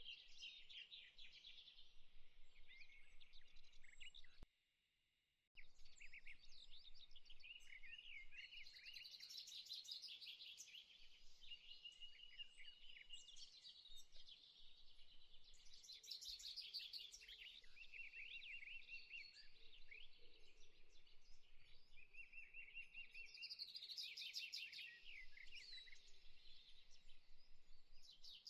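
Faint birdsong: several birds chirping and trilling, with some short held whistled notes. The sound drops out completely for about a second near the start, then resumes.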